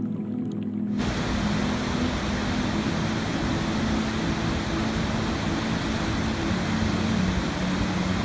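Steady rushing water starting abruptly about a second in, over soft sustained new-age music tones.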